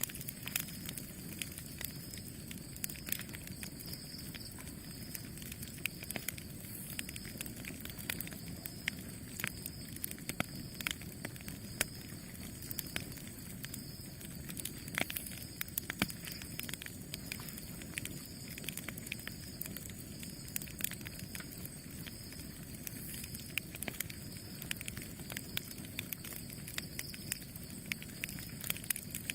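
Campfire burning with a steady low rumble and frequent irregular sharp crackles and pops of burning wood.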